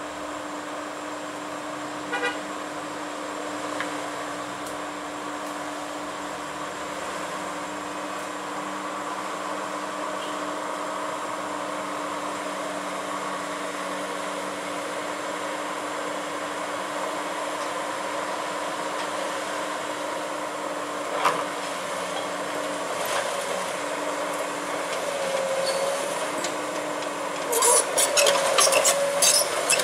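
Heavy machinery running with a steady whine and drone, with an isolated knock about two seconds in and another about two-thirds of the way through. Near the end comes a burst of rapid metallic clanking and rattling.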